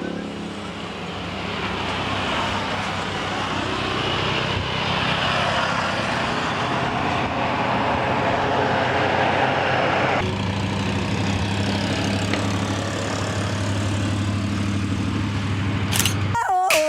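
A motor vehicle engine running steadily close by, with an even low hum; the sound changes abruptly about ten seconds in.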